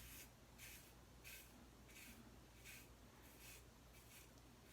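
Faint short scrapes of a RazoRock Hawk single-edge razor drawn over lathered stubble, about eight strokes at irregular intervals of roughly half a second to a second.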